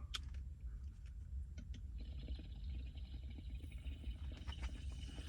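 A hit taken from a dab rig: a steady hiss of air being drawn through the rig starts about two seconds in, over a low rumble.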